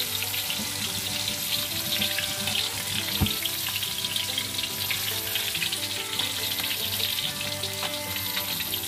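Sliced shallots frying in hot oil in an aluminium wok: a dense, steady crackling sizzle. There is one low thump about three seconds in.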